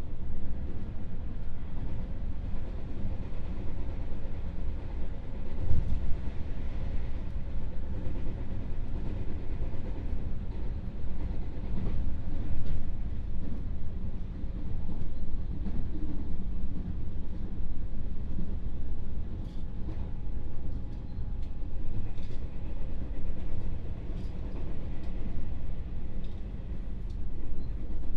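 Running noise heard inside a JR West 221 series electric train car (KuMoHa 221-67): a steady low rumble of wheels on rail, with scattered short knocks and clicks. The loudest knock comes about six seconds in.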